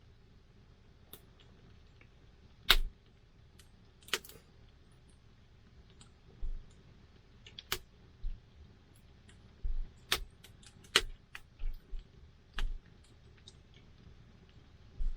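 Wood campfire crackling, with sharp irregular pops and snaps of burning wood; the loudest pops come a little under 3 seconds in and around 10 to 11 seconds in.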